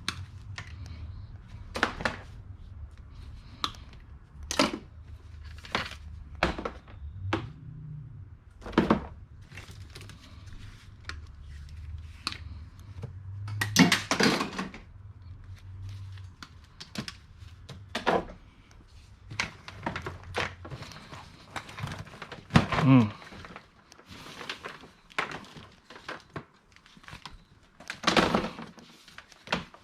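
Scattered knocks, clicks and plastic crackling as scrap e-waste is handled and taken apart, over a low hum that stops about three-quarters of the way through.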